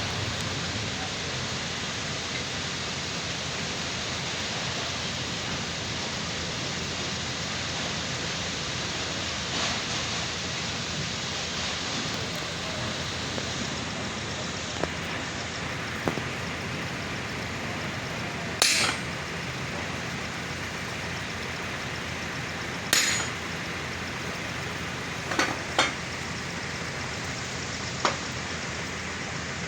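Steady workshop noise with about seven sharp metallic knocks spread through the second half, a few seconds apart: hammer blows on steel machine parts.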